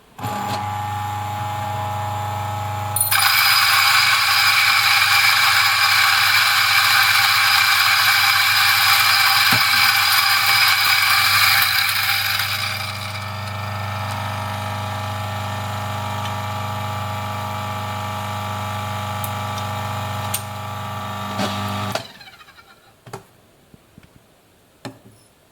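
DF54 flat-burr coffee grinder's motor starting and running, with a loud grinding crunch as a single dose of dry coffee beans goes through the burrs from about three seconds in. The crunching dies away after about ten seconds as the burrs empty, the motor runs on empty for several seconds and then stops, followed by a few faint clicks.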